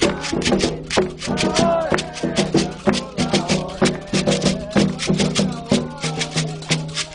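Candomblé ceremonial music: fast, even percussion strikes with a shaker rattling, and voices singing over it.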